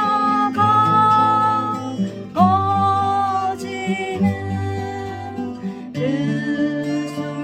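Acoustic guitar strumming a steady accompaniment under a slow lead melody of long held notes, each slid up into from below, in three phrases.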